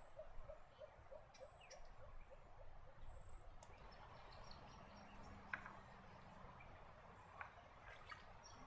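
Faint bird calls in a quiet natural setting: a run of short, low notes, about four a second, over the first three seconds, then a few scattered high chirps.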